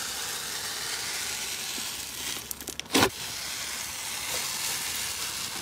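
Slime being squeezed and worked by hand, giving a steady fine crackle, with one short sharp pop about three seconds in.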